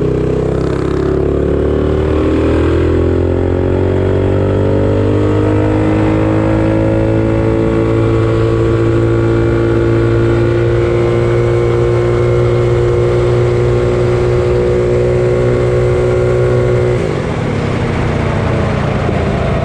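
Predator 212 non-hemi single-cylinder engine with a 275 cam on a minibike, accelerating hard at full throttle. Its pitch climbs for about six seconds, then holds steady at top speed, and drops near the end as the throttle comes off.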